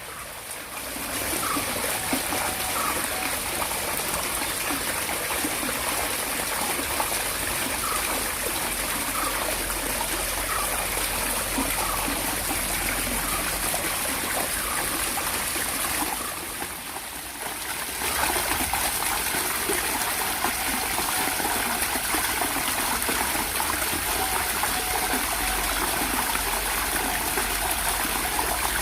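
Water trickling and running steadily, dipping briefly about sixteen seconds in before carrying on.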